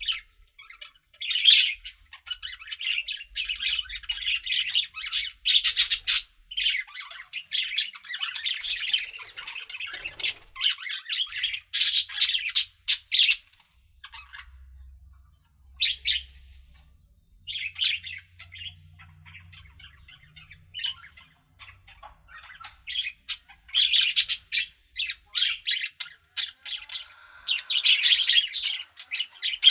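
Several budgerigars chattering: rapid high chirps and warbles in dense runs, thinning to scattered single chirps midway, then busy again near the end.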